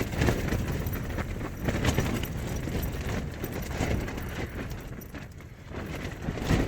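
Gale-force wind gusting against a tent, with the fabric flapping and wind rumbling on the microphone. It eases briefly about five seconds in.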